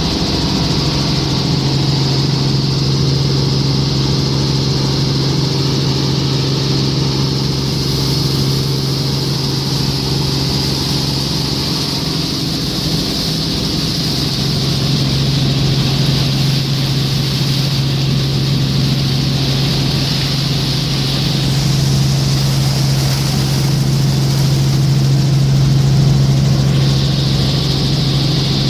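Helicopter in flight, heard steadily: a loud engine and rotor drone with a high whine above it.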